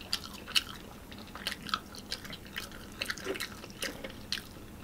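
Close-miked chewing of fried chicken: an irregular run of short, sharp mouth clicks, several a second.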